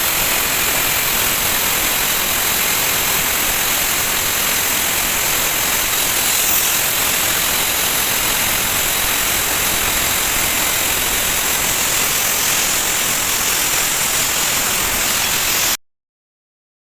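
Steady, even sanding hiss of an abrasive working the steel blade, with no strokes or pauses in it. It cuts off abruptly near the end.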